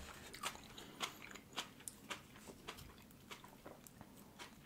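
A person chewing soft food close to the microphone: faint, irregular wet mouth clicks and smacks, several a second.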